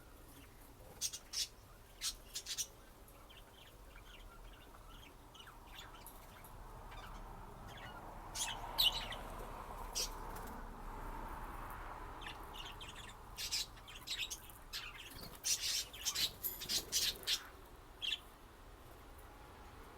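Budgerigar chirping: short sharp calls that come in bunches, thickest in the last few seconds.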